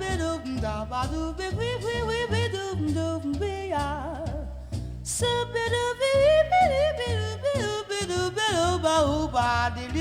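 Swing jazz from a jazz vocal record played through ATC SCM20 studio monitor loudspeakers and picked up by a microphone in the room: gliding melody lines over steady bass notes.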